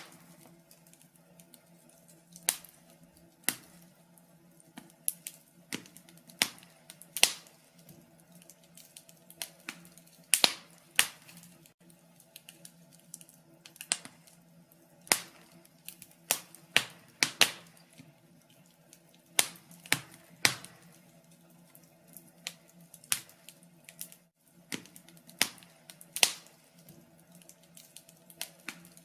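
Wood fire crackling: irregular sharp pops and snaps, a few a second and some louder than others, over a steady low hum.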